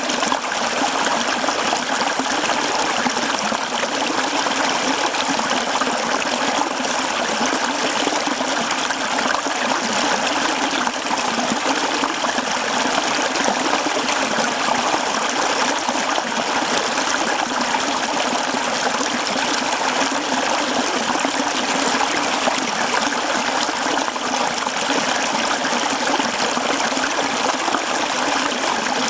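Mountain stream flowing over rocks, a steady babbling and splashing of water.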